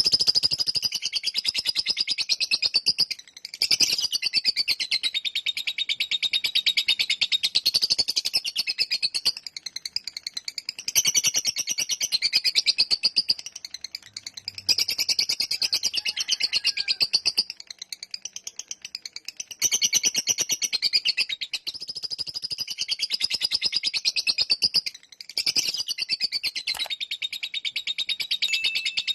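Lovebird singing its long 'ngekek' song: a very fast, continuous, high-pitched chattering trill carried in long bouts of several seconds, with a few short pauses between them.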